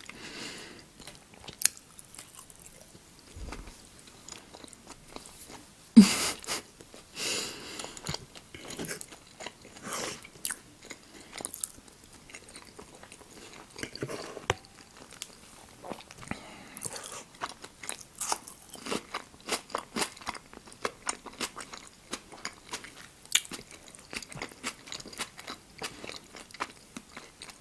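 Close-miked eating sounds: a person chewing soft food such as blood sausage, with irregular short clicks and smacks, the sharpest about six seconds in.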